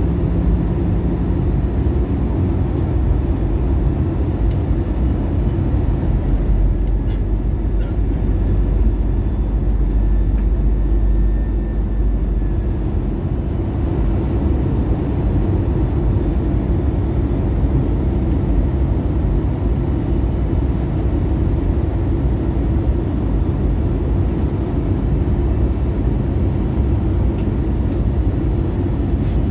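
Steady cabin noise of an Airbus A320-214 in flight, heard from inside the cabin: a low, even drone of airflow and engines that eases slightly about halfway through.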